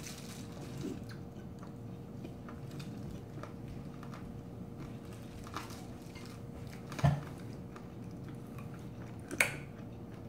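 Close-up mouth sounds of a person chewing a big mouthful of rice mixed with pork cartilage (odolppyeo), with small crunches and wet clicks throughout. Two sharper, louder clicks come about seven and nine and a half seconds in.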